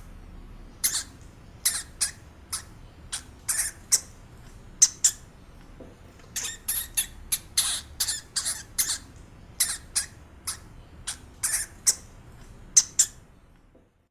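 A small animal giving many short, sharp, high-pitched squeaks at irregular intervals, some in quick pairs or clusters.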